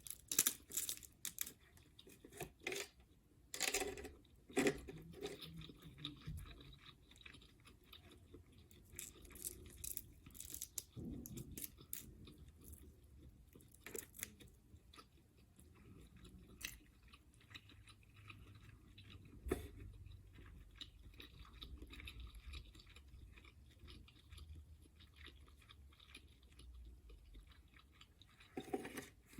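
Close-miked chewing of seafood (crab legs and shrimp in butter sauce), with sharp crunches and clicks packed into the first dozen seconds, then softer, steady chewing.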